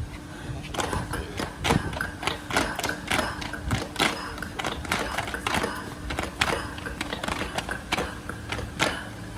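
A run of sharp knocks or hits, about two to three a second and a little uneven, over a steady low hum.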